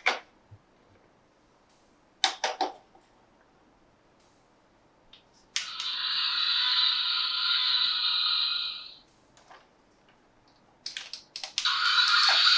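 Plastic toy parts being handled: a few sharp clicks, then twice a steady noise lasting a few seconds, with more clicks between.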